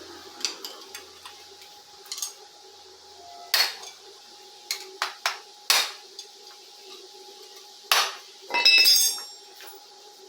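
Metal tools and parts knocking and clinking on a hard surface while working on a chainsaw: several sharp separate knocks, then a short jingling metallic rattle near the end. A faint steady hum runs underneath.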